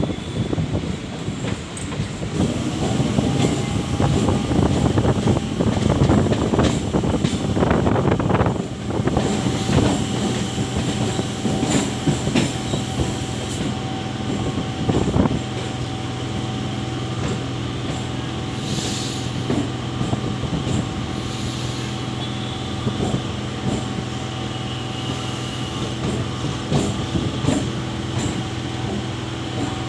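Suburban electric local train running, heard from on board, with a dense rumble and rattle of the wheels on the track. After about nine seconds the rumble eases into a steadier hum with several held tones, with occasional clicks.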